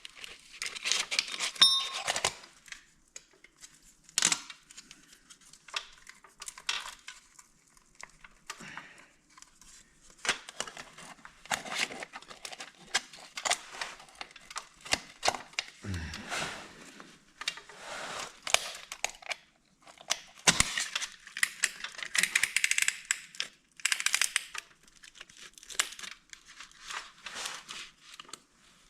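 Irregular metal clicks, taps and scraping from hand work on a piston and its rings as they are worked into the cylinder with a piston ring compressor.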